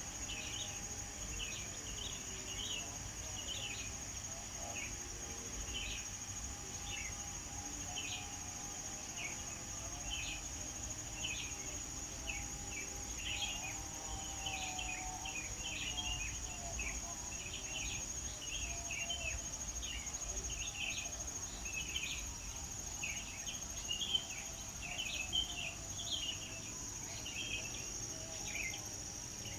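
Small birds chirping in many short, quick notes throughout, over a steady high-pitched insect drone.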